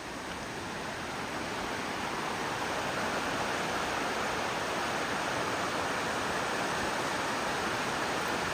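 Steady rush of a fast-flowing river, growing louder over the first few seconds and then holding even.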